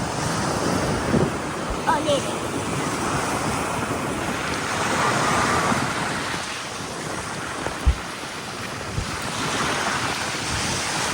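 Ocean waves washing onto a beach, with wind rushing over the microphone and a couple of dull buffets late on.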